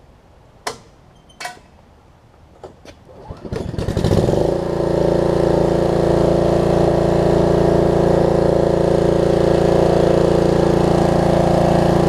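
A few sharp clicks and knocks, then the Snapper rear-engine riding mower's engine is pull-started and catches about four seconds in, warm and without choke, settling into a steady run.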